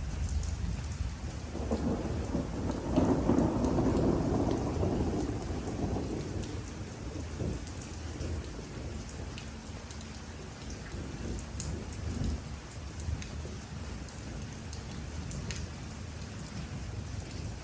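Steady rain falling, with individual drops tapping, and a low roll of thunder that swells about two seconds in and fades away over the next few seconds.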